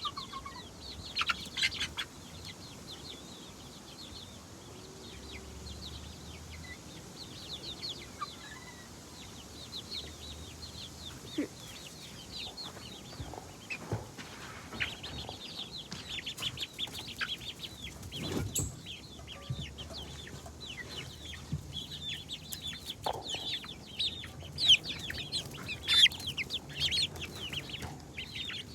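Chickens clucking and calling: a continual run of short, high-pitched notes, busier in the second half, with a few louder sharp calls.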